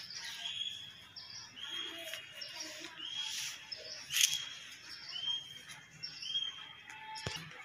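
A bird repeating a short, high call about once a second, with a sharp click a little past halfway.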